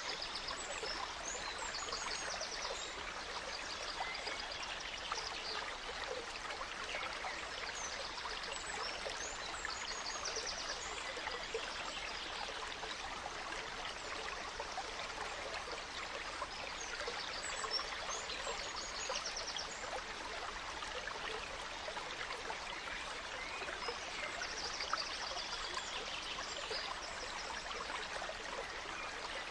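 A gentle stream running steadily over stones, with songbirds singing short, high, quickly repeated phrases that come and go several times.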